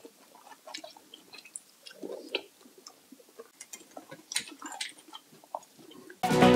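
Faint close-miked eating sounds: chewing with small clicks scattered irregularly throughout. Electronic dance music starts abruptly near the end.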